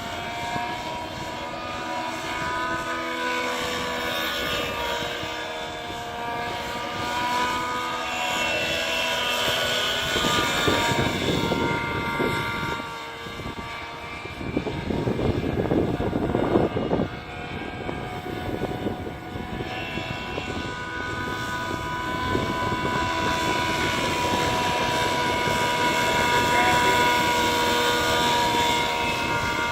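Nitro glow engine and rotors of an SAB Heli Division Black Nitro RC helicopter flying 3D aerobatics, the engine whine rising and falling in pitch with the manoeuvres. Two stretches of louder rushing noise come about a third of the way and about halfway through.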